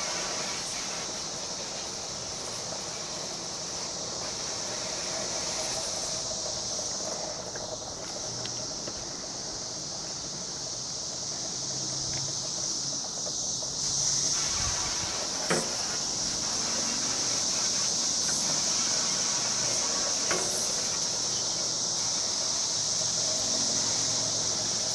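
Water hissing from a hand-pump pressure sprayer as it rinses a barbecue grill, over a steady high trill of crickets.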